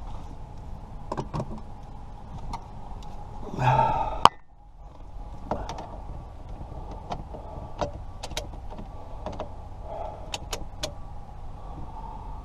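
Small sharp metallic clicks and taps from tools working at a car's ignition lock cylinder as it is pulled, over a steady low hum. About 4 s in there is a brief louder whirring sound that ends in a sharp click, and the background drops away suddenly.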